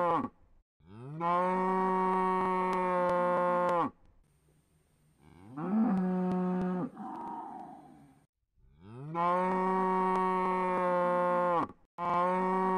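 Cow mooing over and over: long, steady moos of about three seconds each, with a shorter call in the middle that rises in pitch and then turns rough as it trails off.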